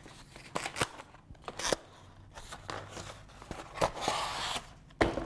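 Packaging being handled and pulled off a hydrofoil fuselage: scattered crinkles and clicks, a longer rustle about four seconds in, and a sharp knock near the end.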